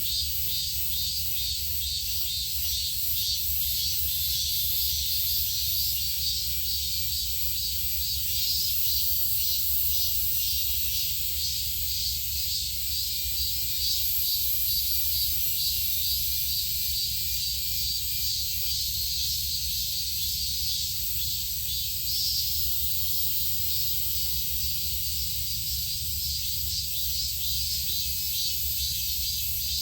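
Insect chorus: a steady, high, fast-pulsing buzz of many insects, over a low steady rumble.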